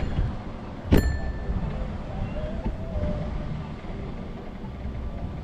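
Steady low wind and road rumble from a moving bicycle. About a second in there is one sharp metallic clank that rings briefly.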